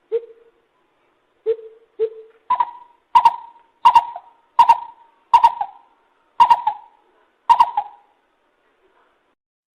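Lesser coucal calling: three low hollow notes in the first two seconds, then a run of seven higher hollow notes about one every 0.7 seconds, each with a sharp start, stopping near the end.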